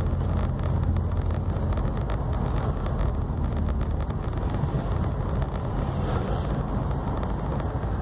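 Volkswagen up! TSI's turbocharged 1.0-litre three-cylinder engine running steadily on the move, over a steady rush of road noise. The engine hum eases slightly about halfway through.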